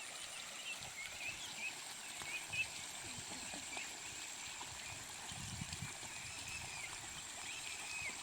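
Outdoor stream-side ambience: many short, high chirping calls from small animals keep coming over a steady high-pitched buzz and the low rush of flowing stream water.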